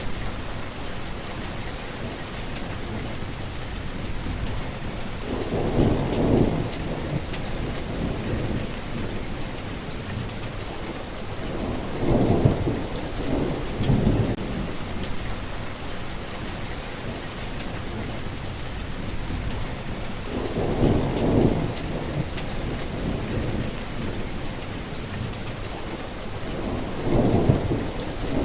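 Steady heavy rain hissing, with low rolls of thunder swelling and fading about five times, every six to eight seconds.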